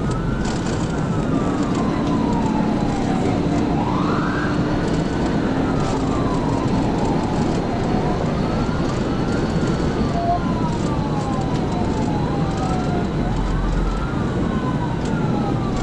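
Police cruiser siren on a slow wail, each rise and fall taking about four seconds, over a steady rush of road and wind noise from the car at pursuit speed.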